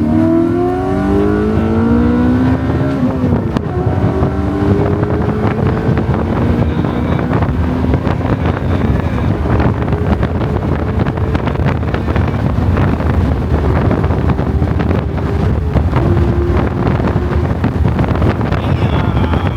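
A car engine rising in pitch as it accelerates, dropping back about three seconds in, then pulling steadily again under road and wind noise.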